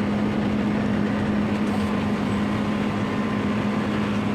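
Air-conditioner unit running under repair for a dead compressor: a steady machine hum with a constant low tone over an even noise.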